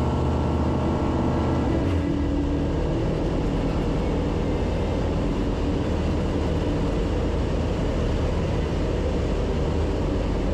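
Savannah ultralight's engine and propeller running steadily, heard loud from inside the cockpit along with airflow noise. The sound cuts in suddenly at full level.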